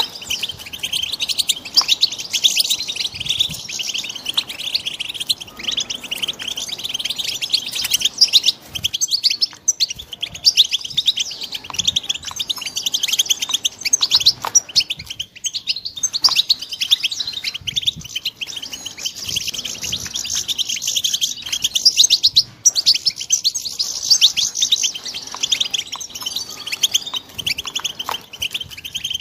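Young European goldfinches singing: a continuous, rapid twitter of fast chirps and trills with hardly a pause.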